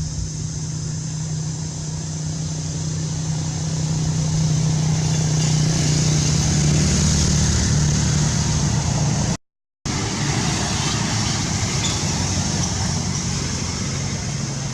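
A vehicle engine running steadily with a low hum that swells slightly and eases off, under a high hiss; the sound drops out completely for about half a second near two-thirds of the way through.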